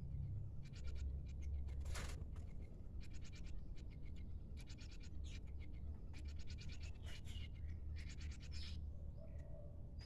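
Small caged birds making several short bursts of rapid, dry rattling ticks, with one sharp click about two seconds in, over a steady low rumble.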